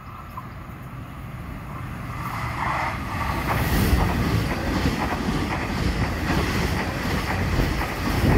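A train approaching and passing close by: the noise grows from about two seconds in, then runs on loud with a rapid clatter of wheels over the rails.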